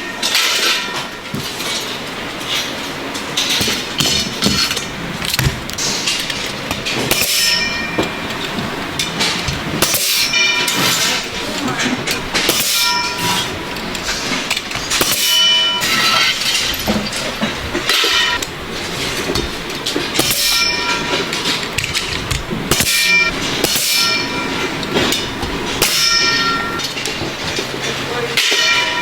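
Metal struck or knocked together again and again, each clang ringing on with a bell-like tone, at irregular gaps of about one to three seconds, mostly from a quarter of the way in.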